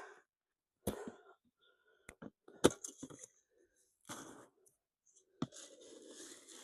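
Footsteps crunching on hard-packed, icy snow and sleet: a handful of separate, uneven crunches, then a longer crunching scrape near the end.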